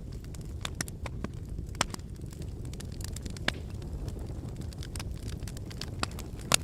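Fireplace fire crackling: a steady low rumble of flames with irregular sharp pops and snaps. A louder pop comes about two seconds in, and another near the end.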